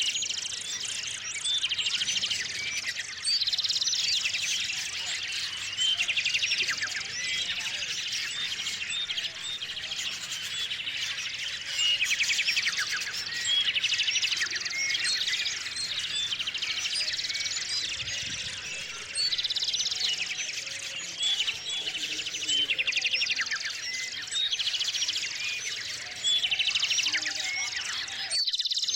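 A chorus of small songbirds chirping and twittering, with many overlapping short calls and repeated rapid trills.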